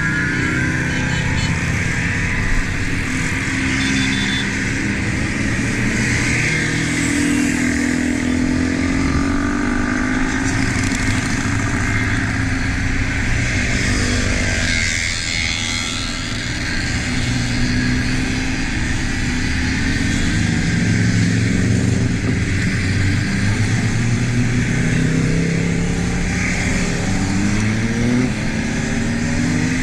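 Motorcycle engine heard from on board while riding, its note rising and falling with throttle and gear changes under steady wind rush, with other motorcycles of a convoy around it. The riding bike is a Honda Deauville 700 V-twin with a Delkevic exhaust.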